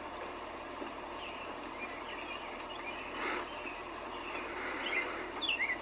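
Steady hiss of rain with birds chirping now and then, a few quick chirps near the end. A short louder burst of noise about three seconds in.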